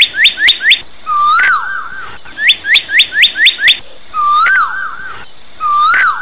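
Bird-like chirping sound effect: two quick runs of about six sharp rising chirps, each followed by a swooping whistle, with one more whistle near the end.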